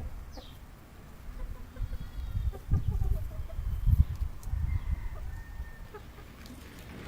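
Polish chickens clucking softly in short calls, over a louder low rumble on the microphone that peaks a few seconds in.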